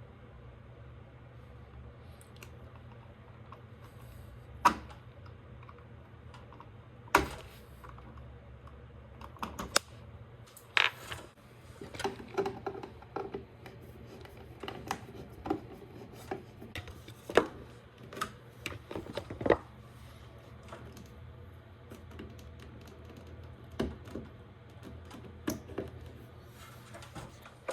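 Splicing electrical wires by hand: scattered sharp clicks and short scrapes of wire, wire nuts and tools being handled, busiest in the middle, over a steady low hum.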